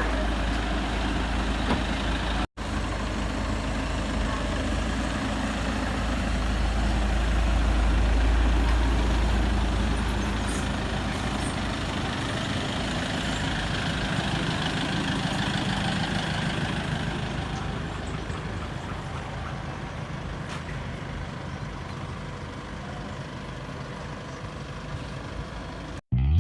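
A motor vehicle running with a low rumble. Its noise swells about a third of the way in and then slowly fades.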